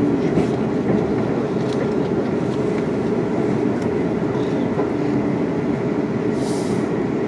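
Steady running noise of a Class 350 Desiro electric multiple unit heard from inside the carriage at speed: wheels on rail, with a few faint clicks and a brief hiss near the end.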